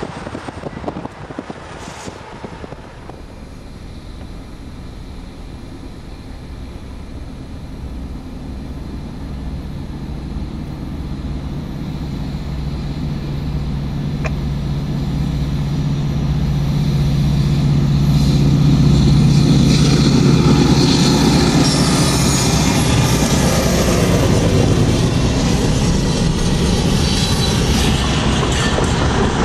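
A diesel-hauled train approaching and passing. The locomotive's engine hum grows steadily louder for about twenty seconds, then gives way to the sustained rumble and wheel noise of the passing cars.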